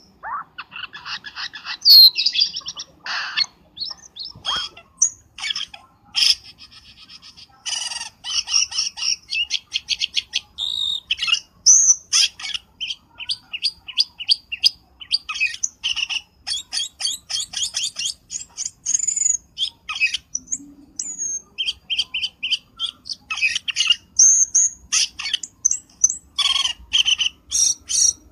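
Cucak keling lure call (suara pikat): a bird's rapid chattering run of short chirps and whistled notes, almost without break. There is a brief lull about twenty seconds in, then the chatter starts again.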